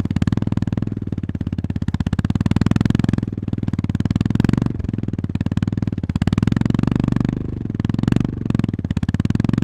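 Honda GB350S's air-cooled single-cylinder engine running under riding load, a rapid, even thumping that eases off briefly about halfway through and again a little later as the throttle is rolled off and back on.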